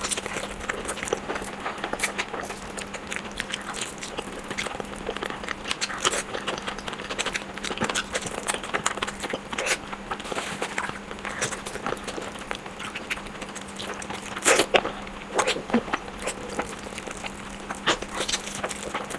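Close-miked chewing of fried eggs: an irregular run of wet mouth clicks and smacks, with a louder cluster about fourteen seconds in.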